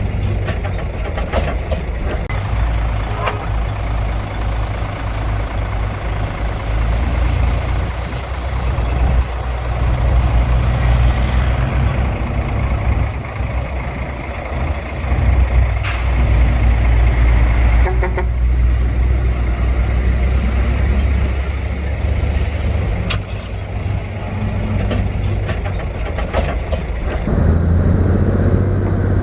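Heavy diesel earthmoving machinery running steadily under load, a deep engine rumble with a rattling haze and several sharp metallic clanks. Near the end the rattle drops away and a deeper, steadier engine note is left.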